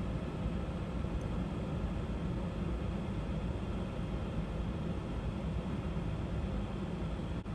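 Steady low rumble of a car's idling engine heard from inside the cabin, with a brief dropout near the end.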